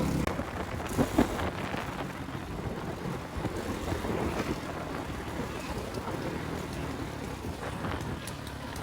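A motorcycle engine running steadily stops just after the start, leaving steady wind noise on the microphone with a couple of faint knocks about a second in.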